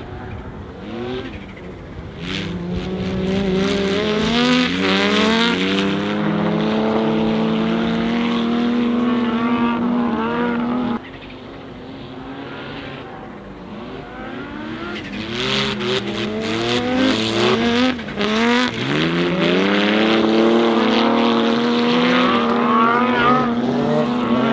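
Audi Sport Quattro S1 E2's turbocharged inline five-cylinder engine accelerating hard, its revs climbing and dropping back through several gear changes. It comes in two runs, each cutting off suddenly, the first about eleven seconds in.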